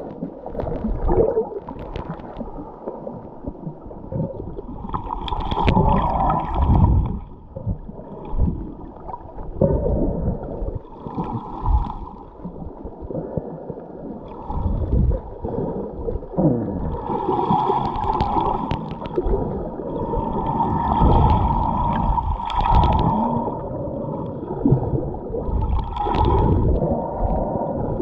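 Scuba diver's breathing heard underwater through a GoPro housing: the regulator hisses and exhaled bubbles gurgle out in bursts every four to six seconds, over a constant low underwater rumble.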